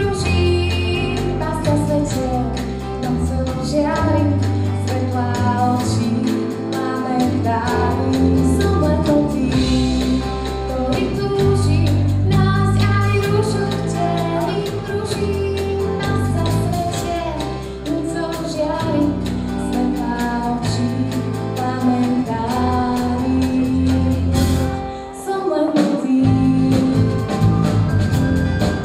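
Live pop song: a woman singing the lead over a band with a moving bass line and a steady beat. The band drops back for a moment about 25 seconds in, then comes back in.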